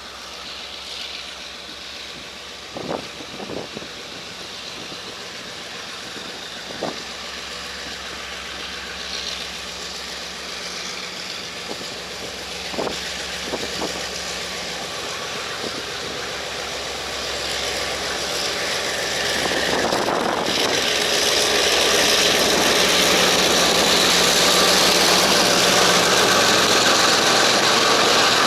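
R20-class diesel-electric locomotive hauling a freight train away from the station: a steady engine hum with a few sharp clanks in the first half, then the rolling noise grows much louder about two-thirds of the way in as the train draws near.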